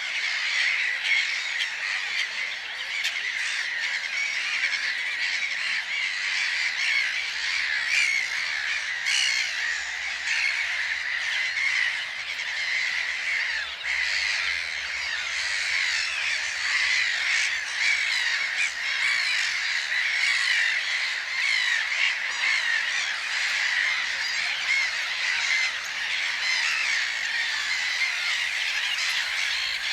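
Many birds calling at once: a dense, unbroken chorus of short overlapping calls.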